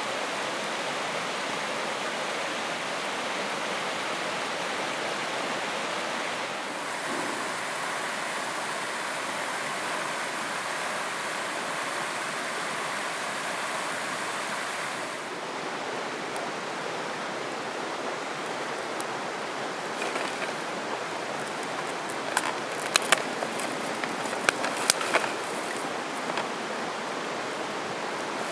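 Steady rushing of a flowing river, with a few sharp clicks and taps from about two thirds of the way in.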